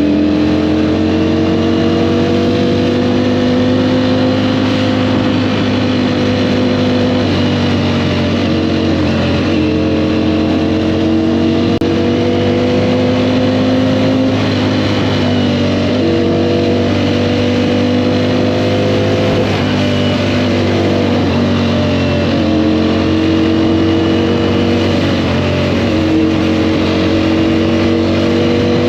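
Sport motorcycle engine running under way, its pitch climbing slowly and dropping back every few seconds as the throttle is rolled on and eased off, with a steady rush of wind and road noise.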